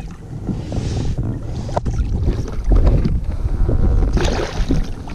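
A kayak moving on open water: wind buffets the microphone in a heavy, uneven rumble, with hissing surges of water noise twice and a single click.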